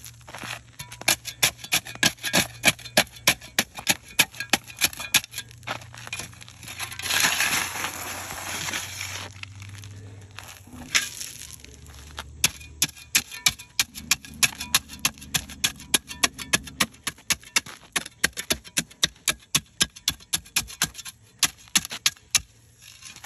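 Rapid, repeated strikes of a hand tool on broken asphalt and cold patch mix, about two to three a second, with a longer gritty scrape about seven seconds in.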